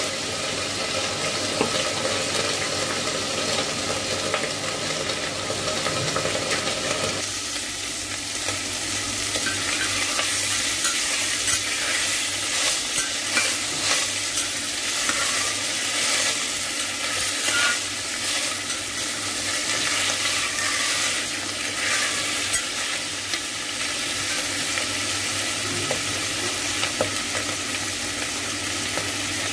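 Salted vegetables sizzling and frying in a pot on an induction cooktop, a steady hiss, while a utensil stirs them and scrapes the pot now and then.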